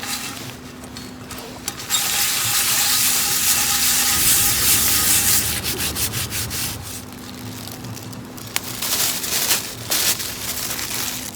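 Rubbing and rustling of camp gear being handled while packing up: a long loud stretch about two seconds in, then a series of short scrapes and clicks in the second half.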